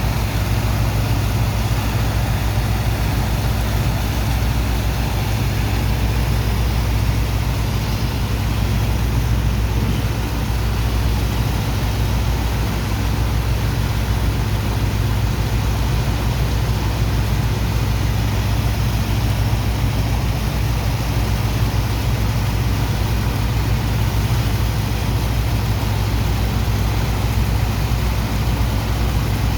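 Heavy diesel engine of a sand-unloading dredger pump running steadily at constant speed, a deep low hum under a rushing wash.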